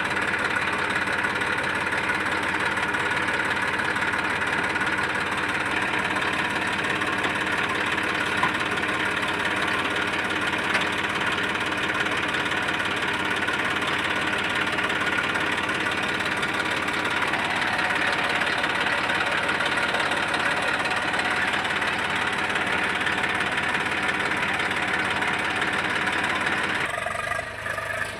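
Eicher 380 tractor's diesel engine running steadily with a knocking chug, a little louder about two-thirds of the way in, then dropping away suddenly just before the end.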